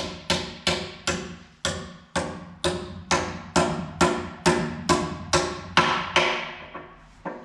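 Hammer blows on steel while a tooth is fitted to a skid-steer bucket: about three ringing strikes a second that stop a little after six seconds, followed by two light taps.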